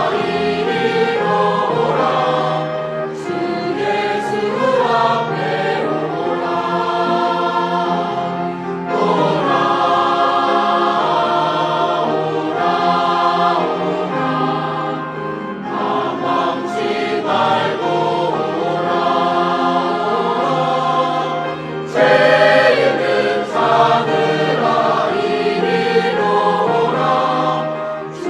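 Church choir singing a hymn in sustained, flowing phrases, swelling louder about two-thirds of the way through.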